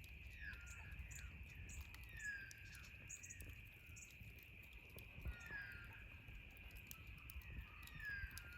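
Faint outdoor campfire crackling with scattered sharp pops, under a steady insect drone. A bird gives a short falling call about four times, every two to three seconds.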